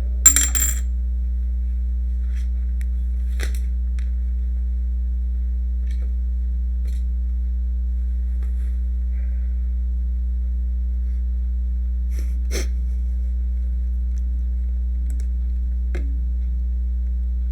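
Steady low electrical hum, with a short rustling click just after the start and a few faint clicks later on.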